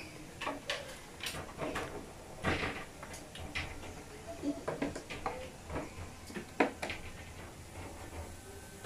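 Irregular light knocks and clicks, a dozen or so short ones spread unevenly, as small objects are handled and set down.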